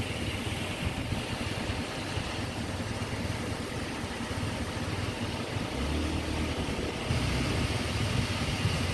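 Strong tropical-storm wind buffeting a phone's microphone in an uneven rumble, with a brief low hum about six seconds in.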